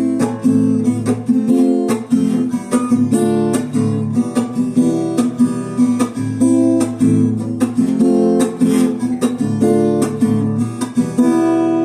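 Acoustic guitar strummed in a steady rhythm, playing a chord progression as the song's instrumental intro before the vocals come in.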